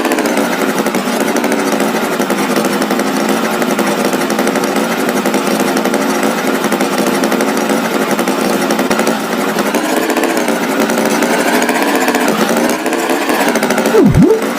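Steady, buzzy small-engine drone, a cartoon tractor's engine sound effect, its pitch wavering slightly. Near the end a quick swooping glide dips sharply in pitch and rises again.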